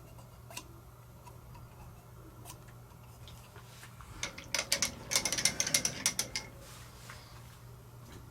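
Micrometer's ratchet thimble clicking in a quick run of sharp clicks a little past halfway, as it is wound down to take a reading on the turned collet. A few scattered clicks come before it, over a faint low hum.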